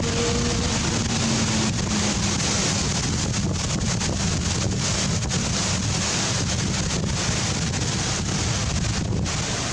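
Strong wind buffeting the microphone: a steady, dense rushing noise, with a faint low hum that fades out about two seconds in.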